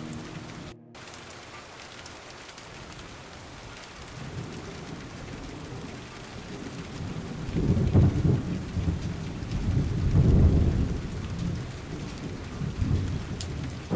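Steady rain with a long roll of thunder that builds a few seconds in, swells twice and eases off near the end.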